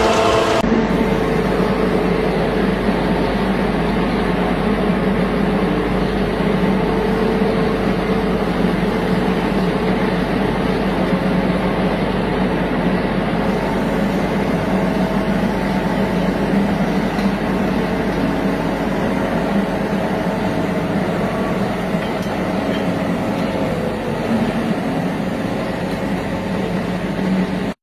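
Steady, loud machinery noise with a low hum running without a break.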